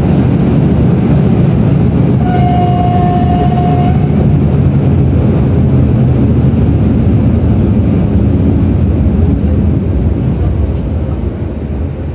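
Loud, steady rumble of an EN57AKM electric multiple unit heard from inside the carriage as it runs along the track, with wheel and rail noise. About two seconds in, a steady high tone sounds for nearly two seconds. The rumble eases slightly near the end.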